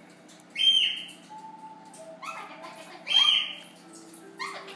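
Amazon parrot calling: two loud squawks about two and a half seconds apart, each holding a high pitch then dropping, with softer shorter calls between and after them.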